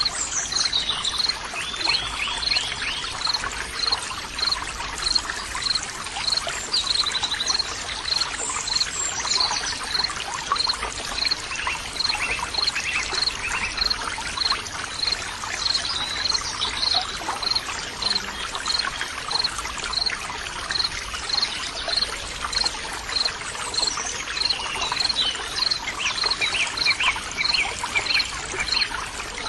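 Water trickling and splashing steadily, as in a small stream, with birds singing over it. A short high chirp repeats at an even pace, a little more than once a second, and brief trills come in now and then.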